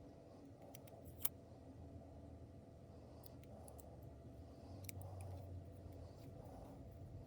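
Quiet handling of small plastic miniatures and their packaging: a few light clicks, with one sharper click about a second in, over a low steady room hum.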